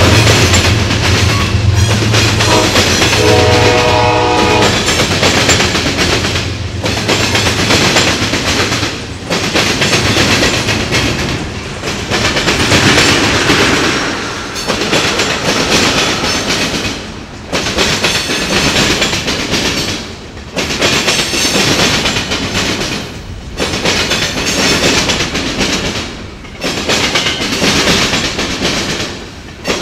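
Freight train rolling over a railroad diamond crossing: the GE ES44AC diesel locomotives' rumble fades in the first few seconds, and a locomotive horn sounds briefly about three seconds in. Then the freight cars clatter and bang across the diamonds, the loudness swelling and dipping as each car passes, about every three seconds.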